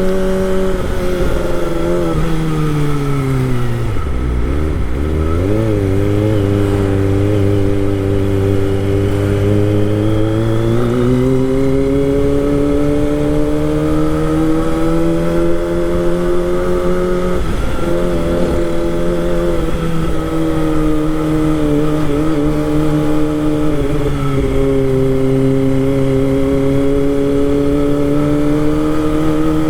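Kawasaki Ninja ZX25R's 250 cc inline-four engine running under way. The revs drop sharply about four seconds in and hold low for several seconds. They climb again around eleven seconds in and settle at a steadier, higher pitch, with a brief dip near eighteen seconds.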